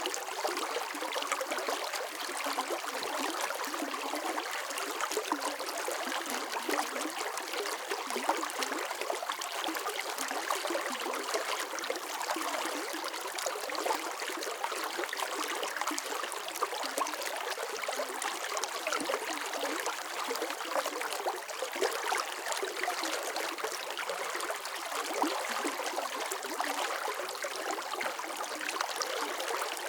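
Water running steadily in a stream, an even rushing flow with fine trickling and splashing detail and no deep bass.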